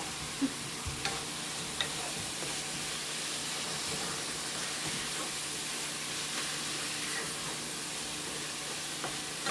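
Ground beef filling frying in a steel skillet: a steady sizzle, with a few sharp clicks and scrapes from a wooden spatula stirring it in the first two seconds.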